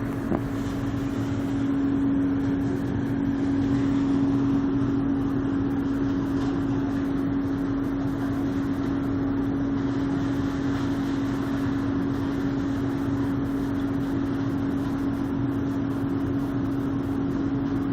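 Loud, steady mechanical drone holding one pitch without change, over a background of noise, the terrible noise the recording was made to capture. A short click sounds just after the start.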